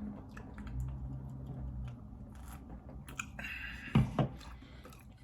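A man taking a drink of beer: small mouth and swallowing sounds and a low hummed 'mmm' about a second in, then a sharp knock about four seconds in.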